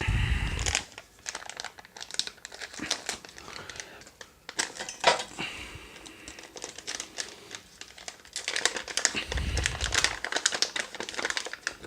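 Plastic ration drink pouch crinkling and crackling as it is handled and opened, with two dull bumps, one at the start and one about nine seconds in.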